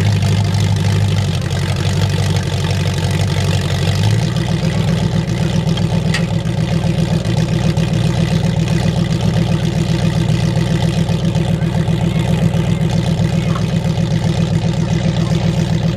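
Mud truck engine running at a lumpy idle, with a steady, fast exhaust pulse; its low note shifts about four seconds in.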